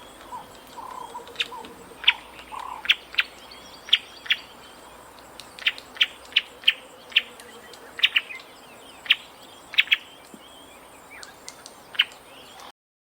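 Bird calls: short sharp chirps repeated at irregular intervals, with a lower warbling call in the first few seconds. The sound cuts out briefly near the end.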